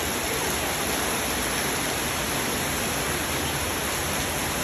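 Heavy rain pouring steadily onto shallow floodwater over a tiled courtyard, an even rushing noise with no breaks.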